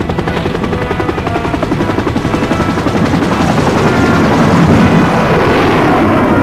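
Helicopter rotor chopping, growing steadily louder.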